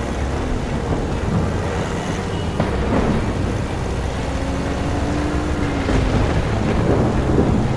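Steady loud rumble of a car driving through a storm, with wind noise and a few faint knocks.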